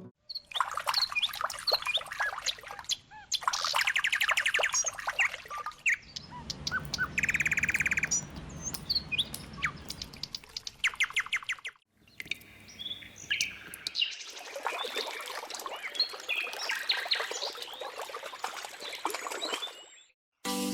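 Several small birds chirping and singing, with quick trills and short high calls in a few abrupt segments.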